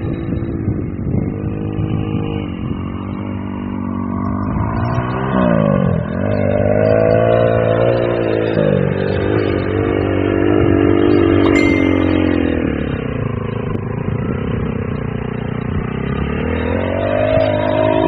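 Small off-road engine revving through the track, its pitch repeatedly climbing under throttle and dropping back, with a deep dip about six seconds in and another rise near the end.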